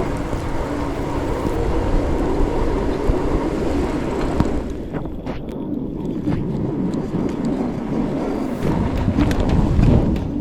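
Wind rushing over the microphone of a fat-tire e-bike riding through snow. The high hiss thins out about halfway through.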